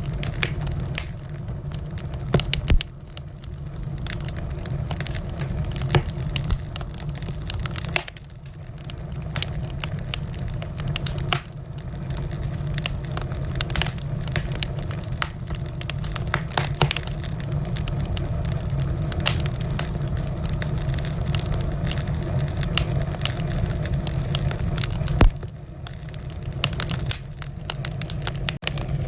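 Wood fire crackling in a fireplace: a steady low rumble of flames under many small crackles, with a few louder pops, the loudest about 25 seconds in.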